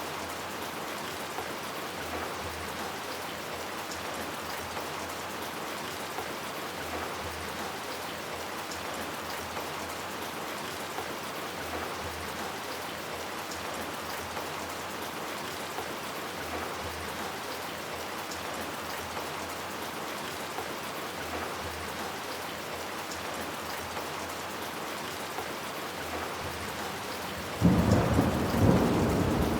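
Steady rain falling. Near the end a sudden loud clap of thunder breaks in and rumbles on over the rain.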